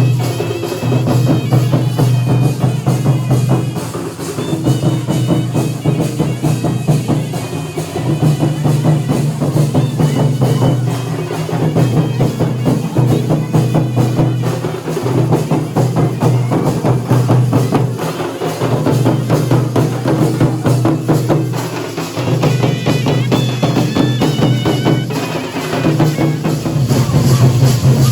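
Dhol and nagada drums played in a fast, continuous rhythm, with a higher melodic line coming in at times.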